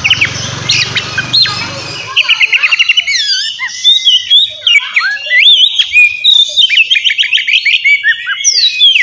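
Oriental magpie-robin (kacer) singing loudly in full, agitated song: a fast, varied run of whistles, slurred notes and quick repeated trills. A low rumble underlies the first two seconds and then cuts off.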